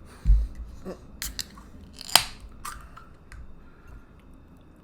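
A few light clicks and knocks, with one sharper snap about two seconds in.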